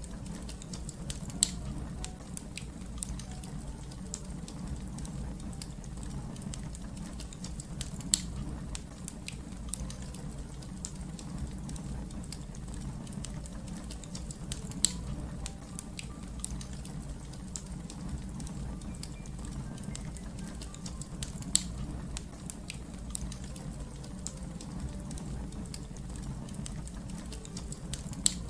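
Wood fire crackling: a steady low rumble of burning with constant small crackles and a louder sharp pop about every seven seconds.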